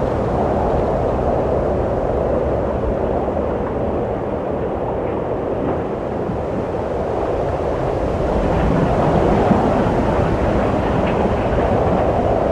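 Wind blowing in a steady, low rush, swelling a little about two-thirds of the way in.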